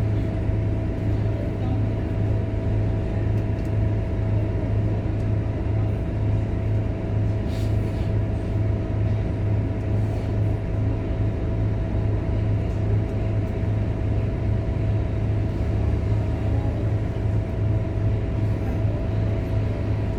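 Scania K230UB bus's five-cylinder diesel engine running at a steady pace, heard as a constant low drone with a thin steady whine above it.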